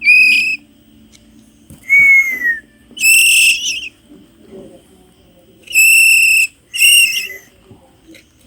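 Hand-fed songbird chick giving five loud, piercing calls, each about half a second long, the second one sliding down in pitch.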